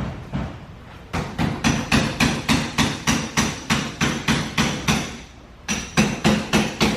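Rapid hammering, an even run of blows about four to five a second that starts about a second in, breaks off briefly, then resumes.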